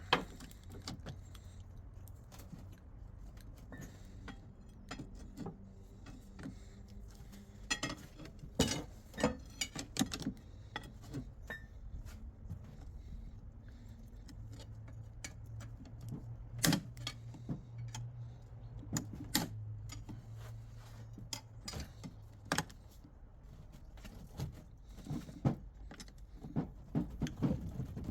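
Irregular metallic clinks and knocks of small steel gearbox parts and hand tools being handled during gearbox disassembly, with a steady low hum for a stretch in the middle.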